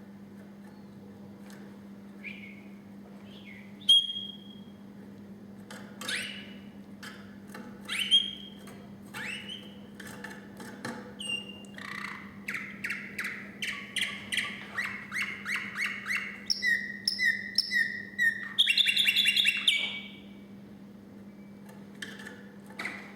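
Domestic canary singing. Scattered single chirps and whistled notes give way, about halfway through, to a run of rapidly repeated rolling phrases that ends in a fast high trill. A steady low hum runs underneath.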